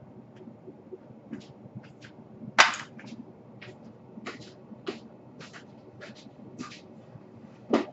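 A string of short, sharp clicks and taps, about a dozen, with a louder clack about two and a half seconds in and another near the end.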